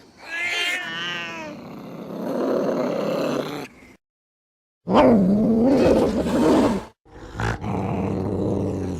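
Angry domestic cats yowling and growling in threat. A wavering yowl opens, then a rougher growling stretch, and after about a second of silence comes a louder, low, wavering growl-yowl, followed by another harsh growl near the end.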